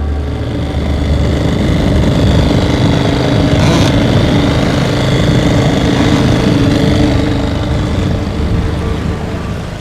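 Small outboard motor running steadily, with a dense low rumble.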